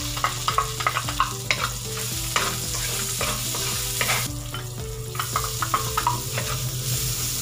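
Chopped garlic and onion sizzling in hot oil in a metal wok, with a wooden spatula stirring and scraping against the pan in quick, irregular clicks.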